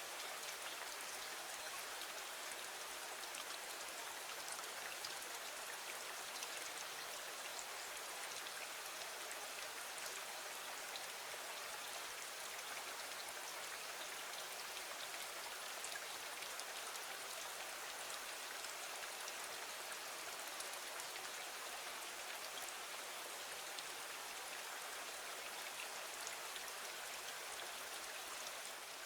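Steady rain falling, an even hiss with many small scattered drop ticks, at a constant level with no changes.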